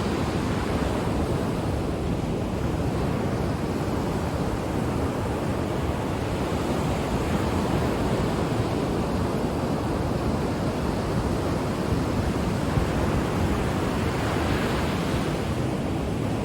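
Ocean waves washing onto a beach: a steady rushing surf, with one wave swelling and breaking a little brighter near the end.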